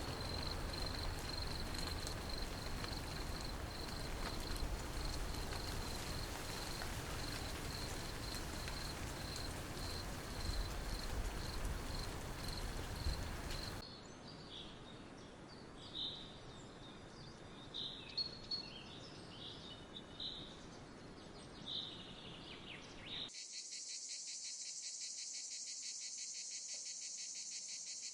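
Insects calling in a natural ambience, in three abrupt sections: a steady chirp repeated a few times a second over a background hiss, then a quieter stretch of scattered short chirps, then from near the end a fast, dense continuous trill.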